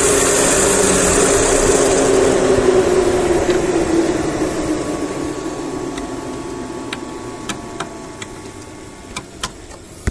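Chevrolet Onix 1.0 engine running with the hood open, its speed slowly easing down so that the engine note drops and grows steadily quieter. A few sharp clicks sound in the second half.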